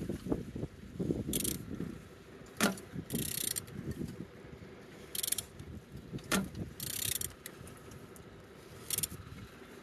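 BMW N47D20A four-cylinder diesel engine being turned over by hand with a wrench: ratchet-like mechanical clicks, with short hissing bursts about every two seconds as the crank goes round. It turns freely, a sign the engine is not seized.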